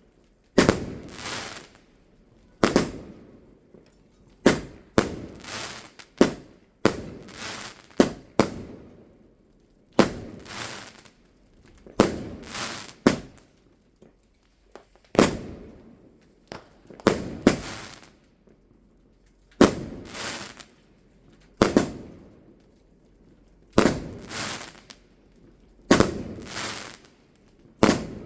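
Fireworks going off: a steady run of sharp bangs, one every second or two and sometimes two in quick succession, each trailing away in a ringing echo.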